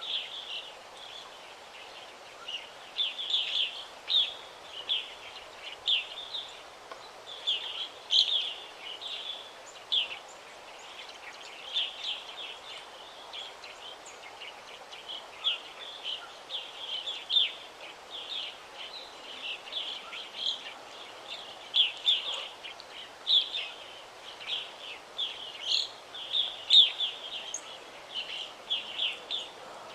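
Forest birds chirping and singing: a steady stream of short, high chirps, often several in quick succession, over a faint steady background hiss.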